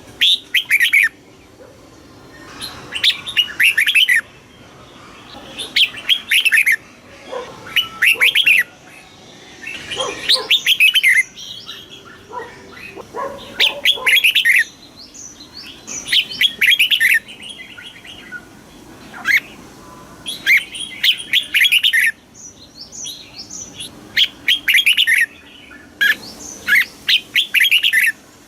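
Red-whiskered bulbul singing: short bursts of quick, bright warbled notes, repeated every two seconds or so with brief gaps between.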